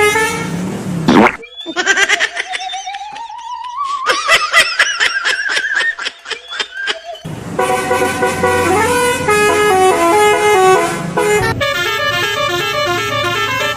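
Multi-tone 'telolet' bus horns playing short melodies, their notes stepping up and down. In the middle a tone rises slowly over several seconds, over a run of quick clicks.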